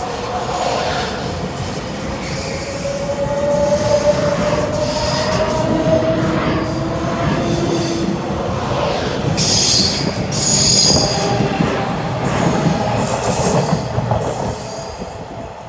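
Taiwan Railway train moving along the platform, wheels squealing on the rails over a dense running rumble, one squeal tone slowly rising in pitch and sharper high squeals about two thirds of the way in. The noise falls away near the end.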